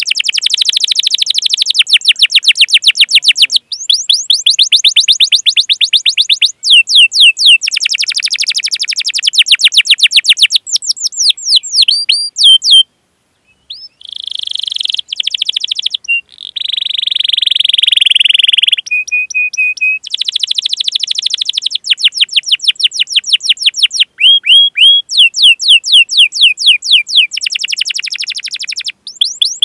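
Canary singing long, fast series of rising 'cuit cuit' chirps in runs of a few seconds each. Just before the middle there is a moment of silence, then a dense buzzy rolling trill lasting a few seconds before the chirp runs resume.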